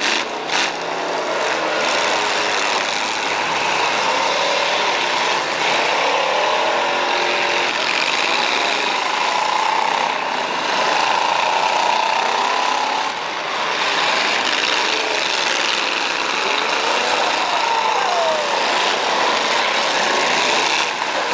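Several demolition derby cars' engines running hard together, loud and continuous, with revs rising and falling as the cars push and ram each other in the mud.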